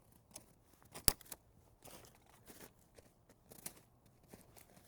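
Footsteps crunching in snow and brush, a few soft crunches spread out, with one sharp click about a second in.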